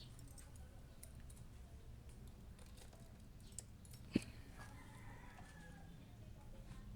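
A rooster crowing faintly once, about halfway through, over a low steady hum, with a single sharp click just before the crow.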